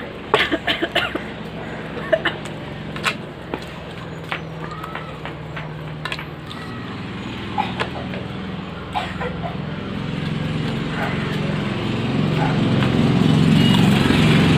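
Sharp clicks and crunches of people eating at the table, thickest in the first few seconds. A low steady hum grows louder over the last few seconds.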